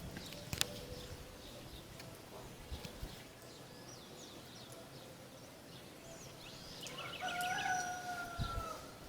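A rooster crowing once near the end, a single long held call that dips slightly as it ends, with small birds chirping throughout.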